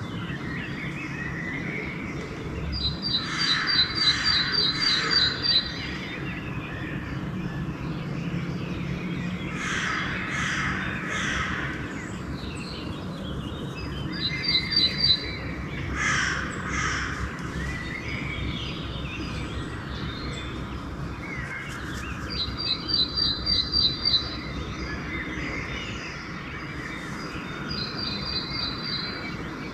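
Crows cawing in short groups of a few caws at a time, set in a dawn chorus of small songbirds. A rapid, evenly pulsed high trill repeats several times, and a steady low rumble runs underneath.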